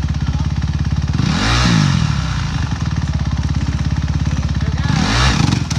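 Motorcycle engine running with a fast, even pulse, revved up and back down twice, about a second in and near the end.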